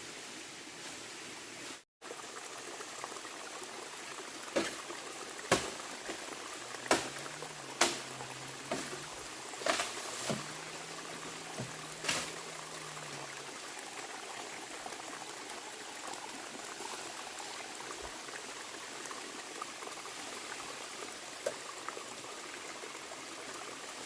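Steady trickle of running water, with a handful of sharp knocks or taps scattered through the middle.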